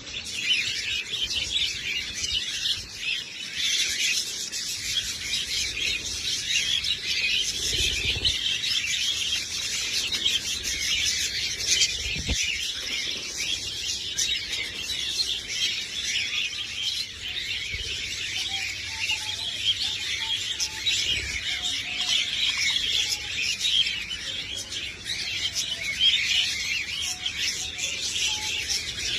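A flock of budgerigars chirping and chattering continuously, many birds at once. There is one brief low knock about twelve seconds in.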